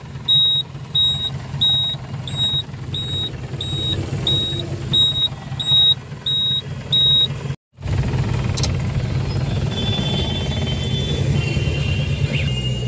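Taxi engine running in stop-and-go traffic, heard from inside the cab as a steady low rumble. Over it a high electronic beep repeats about twice a second and stops about seven seconds in. A moment later the sound cuts out briefly before the rumble resumes.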